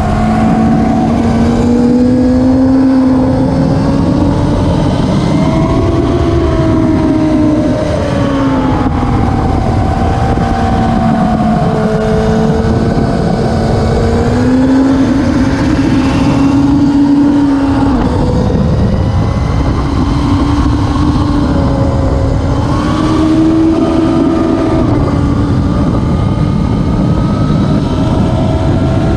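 Classic superbike racing motorcycle engine running hard and continuously, its pitch rising and falling every few seconds as the revs change.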